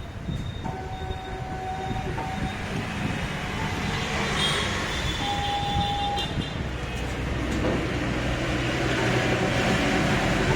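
A machine running with a steady rumble and hiss, growing slightly louder, with short whining tones in the first half.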